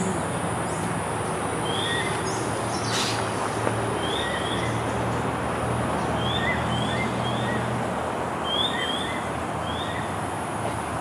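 A bird calling repeatedly in short, rising high chirps, in twos and threes about every second or so. Behind it runs a steady high-pitched drone and a constant low background hum.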